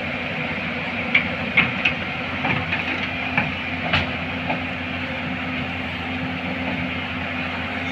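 Excavator diesel engine running steadily while its steel track chain is fitted, with several sharp metal clanks of track links in the first half.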